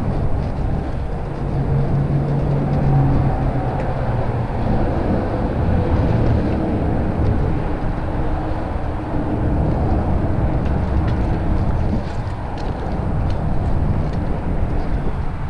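Wind rumbling over the microphone of a GoPro Hero 5 Black on a moving mountain bike, a steady low noise with tyre and trail noise beneath it.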